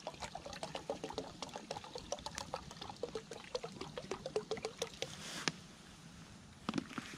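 Coffee being poured from a pot into a cup, a run of small splashes and trickles that stops about five and a half seconds in. A single knock comes near the end.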